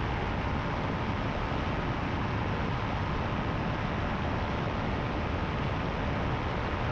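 Powered paraglider's engine and freshly repaired propeller running steadily at cruise power in flight, heard as an even drone mixed with wind rush over the microphone.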